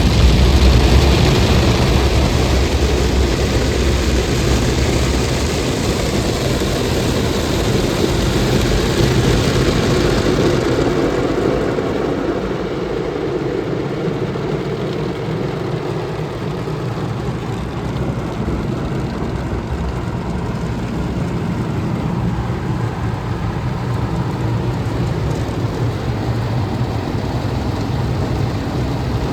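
Automatic car wash machinery running, with a steady rush of water spray over a low mechanical rumble. About ten seconds in, the hissing spray drops away and a lower rumble and hum carry on.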